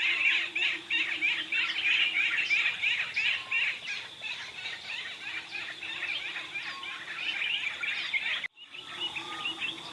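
A dense chorus of many birds chirping and twittering at once, with a faint low steady drone underneath. The sound cuts out briefly about eight and a half seconds in, then a similar chorus resumes.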